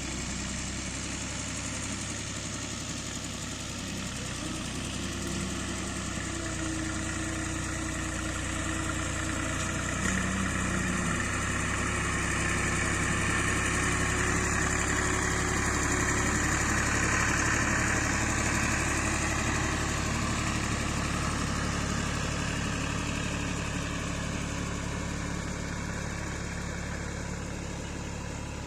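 Ghazi 65 hp tractor's diesel engine running steadily, growing louder toward the middle and then easing off.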